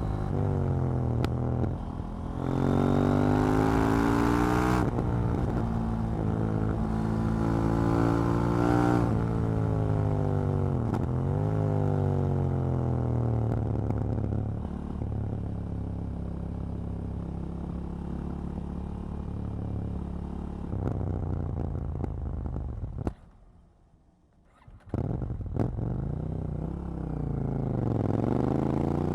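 KTM 790 Duke's parallel-twin engine under way, revving up and rolling off again and again, its pitch climbing and falling through the gears, with a steadier stretch of cruising in the middle. About 23 seconds in the sound almost cuts out for about two seconds, then the revs climb again near the end.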